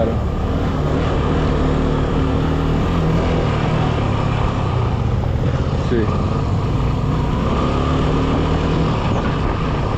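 A motor vehicle's engine running steadily under road noise, its drone rising and falling slightly in pitch.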